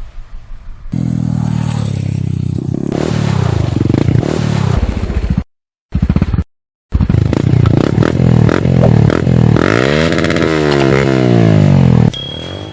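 Yamaha R15's single-cylinder four-stroke engine, fitted to a dirt-bike conversion, running hard under way. It starts suddenly about a second in and revs up and down several times near the end. The sound cuts out briefly twice around the middle.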